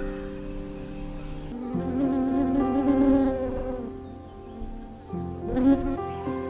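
An insect buzzing close by, its wavering drone coming and going twice over soft background music.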